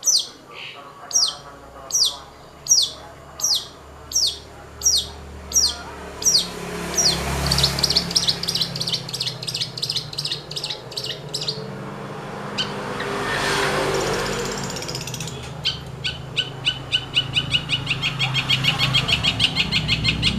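Long-tailed shrike (cendet) song: a run of sharp downward-sweeping whistles about one and a half per second, then a fast trill, and near the end a rapid ticking chatter. A low hum runs underneath, and a rush of noise swells and fades about two-thirds of the way through.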